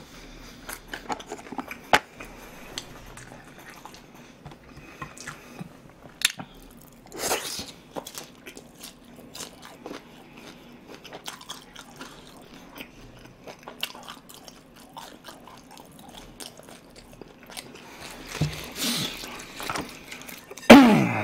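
Close-miked chewing and mouth sounds of a person eating Chinese-style jjajangmyeon noodles, with many small clicks of chopsticks in a glass bowl and a couple of louder eating noises.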